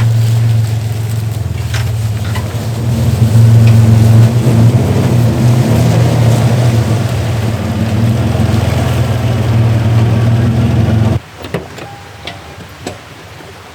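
First-generation Toyota Tacoma pickup's engine running steadily as the truck moves into position, swelling briefly about four seconds in. The engine sound stops abruptly about eleven seconds in, followed by a few light clicks.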